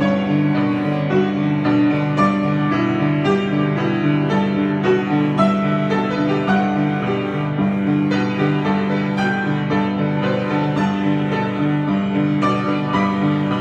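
Piano improvisation: a low figure repeating about twice a second under sustained chords, with scattered higher notes above.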